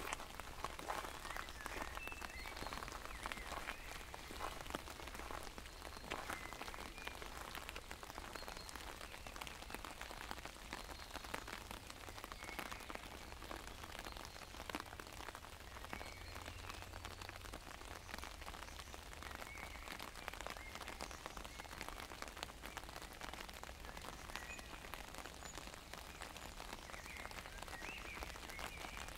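Rain falling on an umbrella overhead: a dense, steady stream of small drop ticks.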